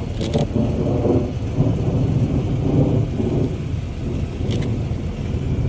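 Thunder rumbling steadily through a thunderstorm, with rain hissing and a couple of brief crackles.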